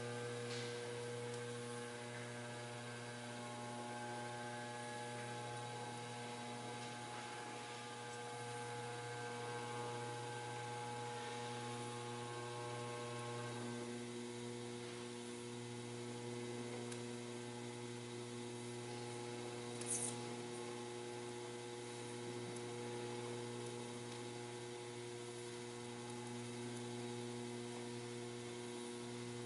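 Steady electrical hum, even and unchanging, with a single brief sharp click about twenty seconds in.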